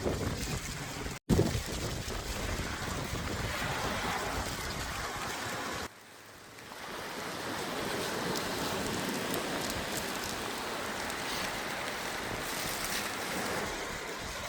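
Ocean surf washing on the beach, with wind buffeting the microphone. The sound cuts out briefly about a second in and comes back with a sharp jolt, then drops suddenly near the middle and swells back up.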